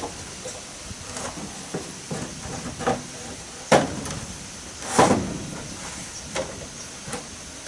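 Irregular knocks and thuds of wood being handled and struck, with two loud knocks a little over a second apart near the middle, over a steady hiss.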